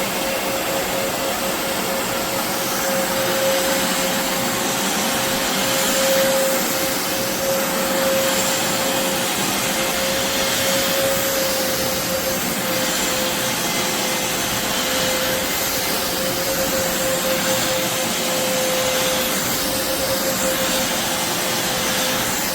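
BISSELL Revolution HydroSteam Pet carpet shampooer running steadily as it cleans carpet, a loud rush of suction air under one steady motor whine.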